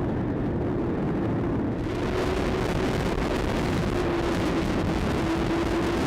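Car engine and road noise from inside a moving car, with a steady hum that drifts slightly in pitch. A louder hiss comes in about two seconds in.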